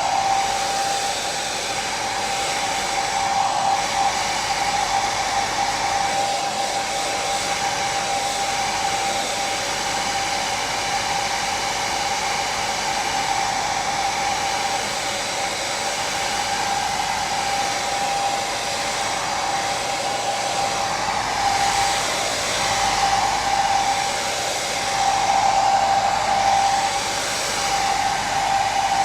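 Electric hair dryer running continuously, a steady rush of air with a motor whine held at one pitch, swelling slightly a few times. Played as white noise for sleep.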